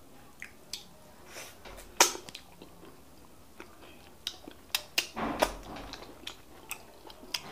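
Close-miked mouth sounds of eating fufu with bitter leaf soup by hand: wet smacking and chewing with scattered sharp smacks, the loudest about two seconds in and a cluster around five seconds.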